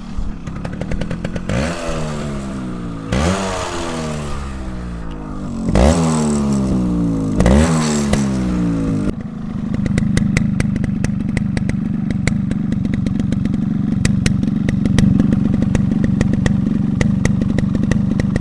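Yamaha RX100 single-cylinder two-stroke engine breathing through its stock silencer. It is blipped four times, each rev climbing sharply and then falling away. About nine seconds in it settles into steady running with a fast crackling rattle.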